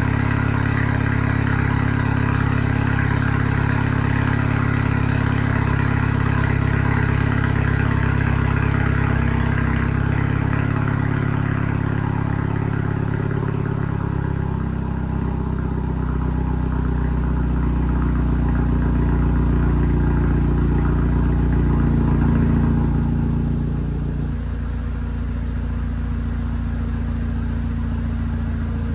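MINI Clubman S (F54) turbocharged four-cylinder engine idling through a Remus exhaust with its valves fully open, a steady low drone. About halfway through the idle note shifts, and a few seconds before the end it settles slightly quieter and lower.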